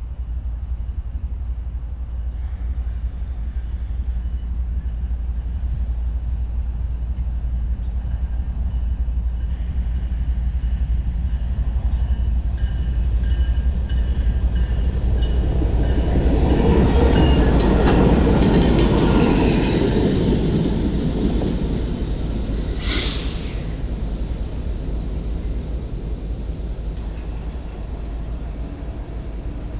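BNSF diesel locomotive train rumbling past, growing louder to a peak a little past the middle and then fading, with rail clatter. A short sharp hiss comes about three-quarters of the way through.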